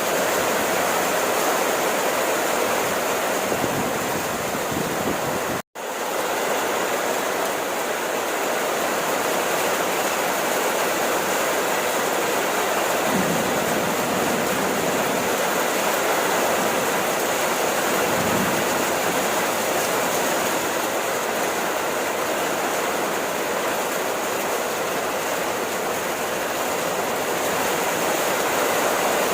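Steady rain falling, an even, unbroken rush of water. The sound cuts out for an instant about six seconds in, then resumes.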